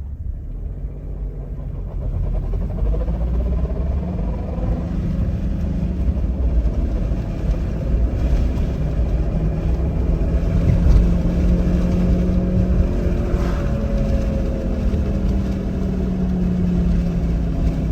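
Car on the move, picking up speed over the first couple of seconds, with a low road rumble and a humming whine that drifts up and down in pitch. This is the abnormal noise that the owner suspects comes from a drive shaft or a sealed ball bearing.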